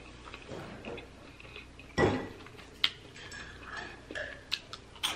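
Close-miked eating sounds of a person chewing a chicken burrito: soft mouth clicks and smacks, with one louder thump about two seconds in and a cluster of sharper clicks near the end.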